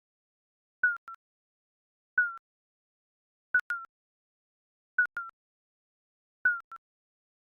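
Digital countdown timer beeps: short, high electronic blips that dip slightly in pitch, repeating about every second and a half, several followed by a quieter second blip, with silence between.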